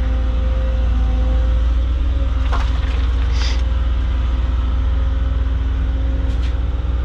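Caterpillar 307.5 mini excavator's diesel engine running steadily, heard from inside the cab as a deep, even rumble. Two brief higher-pitched sounds come in about the middle.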